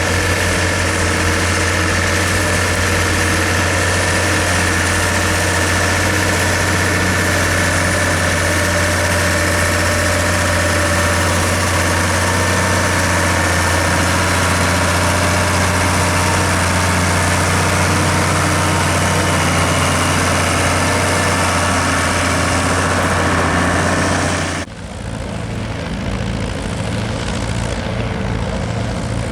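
Diesel tractor engine running steadily under a low, even drone. About 25 s in, the sound cuts off abruptly to a quieter, different engine drone.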